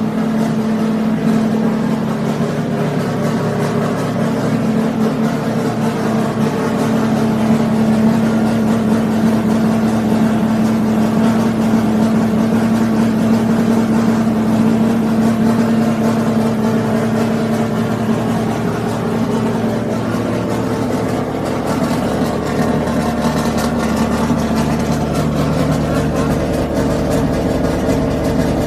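Renault Kwid's three-cylinder petrol engine running steadily, its note shifting slightly about three-quarters of the way through.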